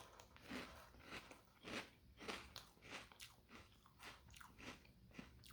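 A mouth chewing crunchy Cocoa Pebbles Crunch'd cereal: faint, even crunches about twice a second.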